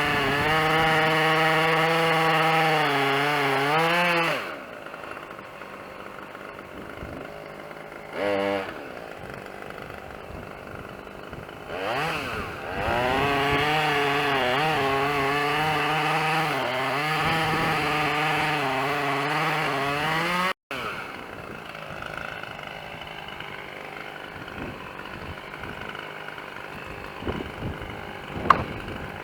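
Two-stroke chainsaw cutting wood at full throttle, dropping off to idle about four seconds in, blipped once, then revved up and cutting again for about eight seconds until it stops abruptly. Afterwards a lower steady noise with a few sharp knocks near the end.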